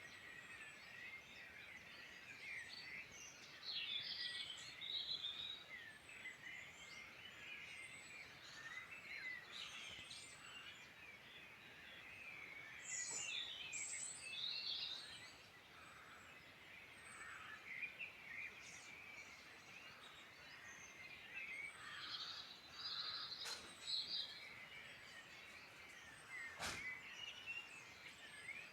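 Several wild birds singing at once: a dawn-chorus-like mix of short, overlapping chirps and trills, with a couple of faint clicks near the end.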